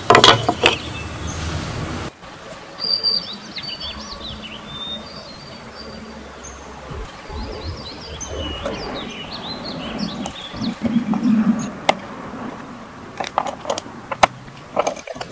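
Small birds chirping and twittering in short gliding calls, with a few sharp knocks near the end. A steady low hum runs for the first two seconds and cuts off abruptly.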